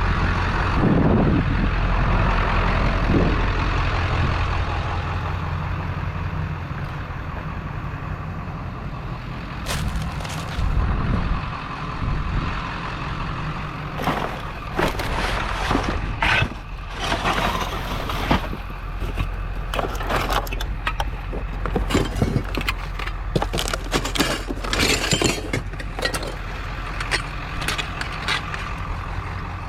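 A vehicle engine running steadily, fading after the first few seconds, then a long irregular run of sharp clanks and rattles of scrap metal being handled.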